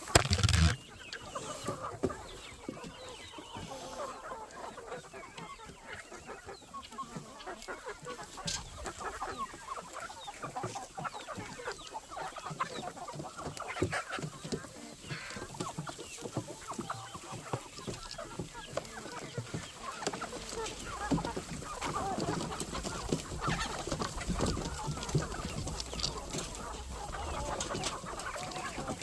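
A flock of chickens clucking and calling continuously, with a rooster crowing now and then. A loud bump right at the start, and low rumbling in the last third.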